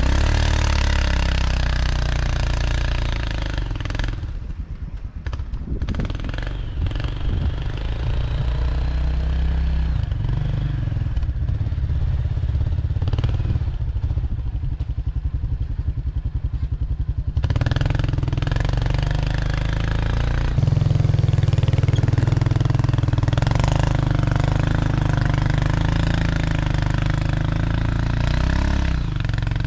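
Four-wheeler (ATV) engine running. About four seconds in it drops to a lower idle with separate firing pulses, then picks up again after about thirteen seconds and runs harder from about twenty seconds.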